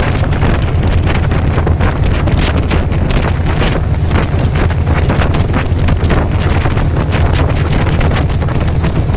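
Meter-gauge passenger train running at speed: a steady loud rumble with irregular clattering of steel wheels on the rails, and wind buffeting the microphone.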